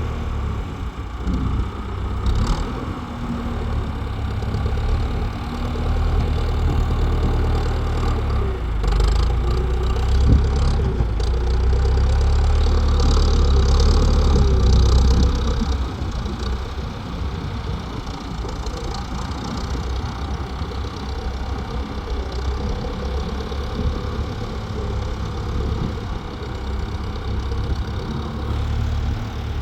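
Tractor engine running steadily, getting louder and working harder from about six seconds in until about sixteen seconds, then settling back. A few sharp knocks come in along the way.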